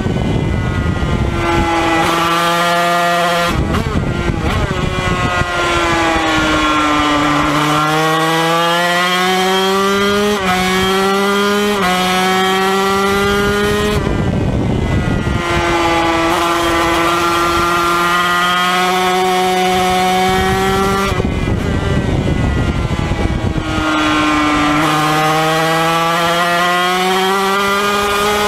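Yamaha TZ250 two-stroke twin racing engine, heard onboard, running hard and climbing in pitch through the gears. Several times the engine note drops away to a rushing noise when the throttle is shut for corners, then picks up again.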